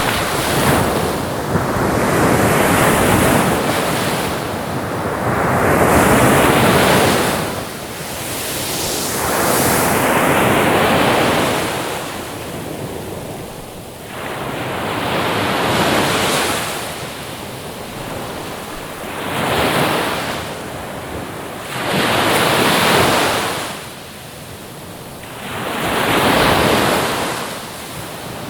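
Ocean surf: waves breaking and washing in, swelling and falling back about every three to four seconds.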